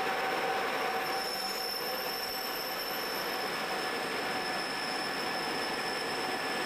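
Double-deck car-carrier wagons of a motorail train rolling past behind an electric locomotive: a steady rumble of wheels on rail with a thin, steady high-pitched wheel squeal over it.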